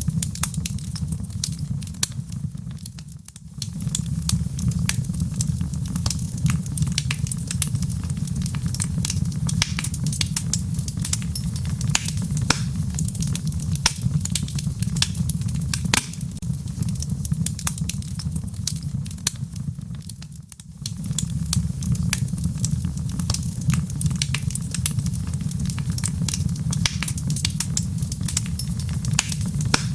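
Wood fire in a fireplace crackling, with frequent sharp pops over a steady low rumble of the flames. The sound dips briefly twice, about three seconds in and again about twenty seconds in.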